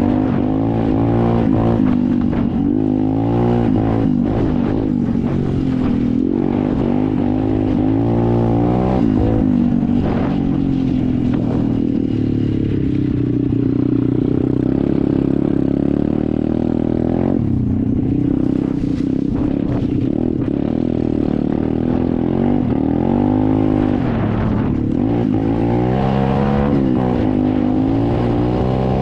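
SSR 125 dirt bike's single-cylinder four-stroke engine running under throttle, its pitch rising and falling again and again as the revs go up and down.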